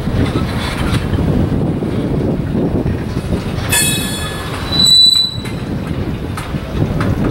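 Freight train of tank cars rolling past, with a steady rumble of wheels on rail. A brief wheel squeal comes about three and a half seconds in, then a louder, higher-pitched squeal about five seconds in.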